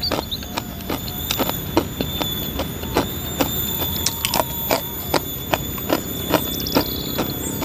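Close-up chewing of a crunchy spicy stick snack: a crisp crunch about two to three times a second. A steady high-pitched animal whine, a 'nging', runs underneath.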